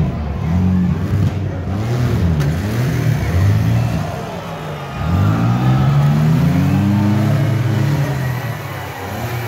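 Demolition derby minivan engines revving hard, their pitch climbing and dropping every second or two as the vans drive and push into each other. A long rev climbs and falls back in the second half.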